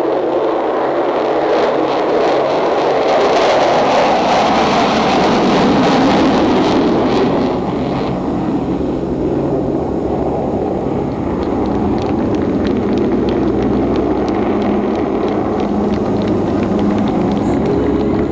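Jet roar of the Avro Vulcan's four Rolls-Royce Bristol Olympus turbojets as the bomber flies past. It grows louder to a peak a few seconds in, then eases off.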